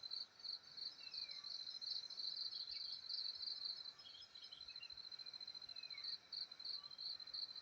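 Insects chirping in a steady high-pitched pulsing trill, about three pulses a second, that runs into an unbroken buzz for a while midway. A few faint, short falling bird notes sound against it.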